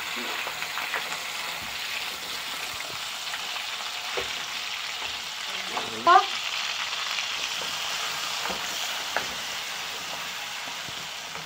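Potato chunks sizzling steadily in hot mustard oil in an aluminium kadai while a wooden spatula stirs them, with a few sharp clicks. About six seconds in comes a brief, loud rising squeak.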